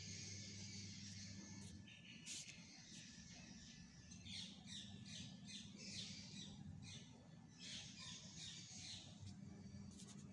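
Birds chirping faintly, a quick run of short high notes, about three a second, starting a few seconds in and stopping near the end.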